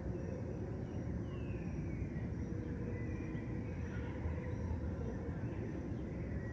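Urban park ambience at dusk: a steady low rumble of distant city traffic, with faint bird calls over it, including a falling call about a second in, and a faint high note repeated at an even pace.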